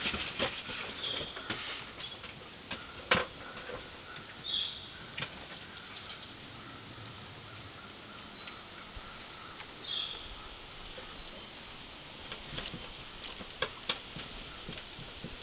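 Tufted titmouse at a wooden platform feeder: a scatter of sharp taps and wing flutters as it lands and picks at seed on the board, the loudest tap about three seconds in, with a few short high chirps. A steady high-pitched pulsing runs behind.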